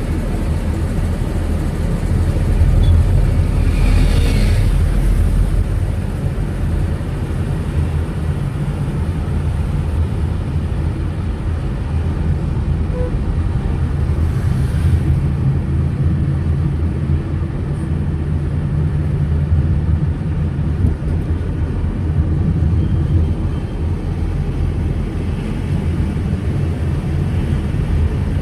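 Steady low rumble of road traffic and moving vehicles, with something louder and hissier passing about four seconds in and again around fifteen seconds in.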